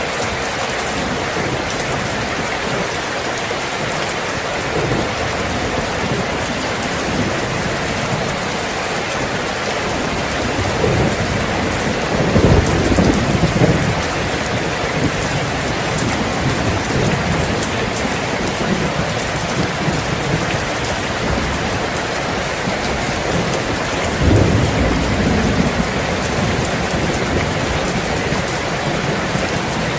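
Steady rain falling, with two low rolls of thunder, the first a little before the middle and the second later on.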